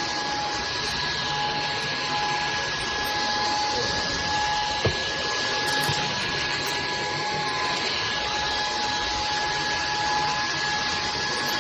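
SKIWEC cordless stick vacuum running steadily, an even rush of air with a steady motor whine, and a single click about five seconds in.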